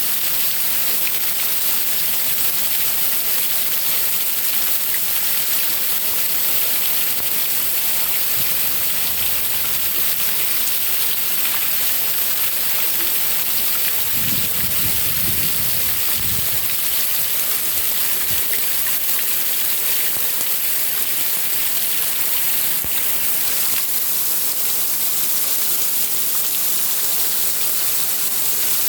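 Heavy rain falling steadily, a dense even hiss, with a brief low rumble about halfway through.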